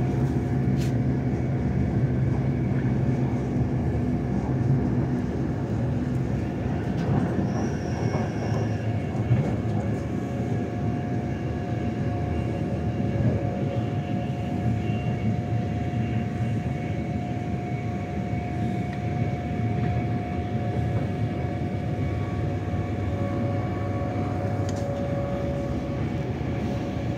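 Passenger train running at speed, heard from inside the carriage: a steady rumble of wheels on the track with a constant hum held at one pitch.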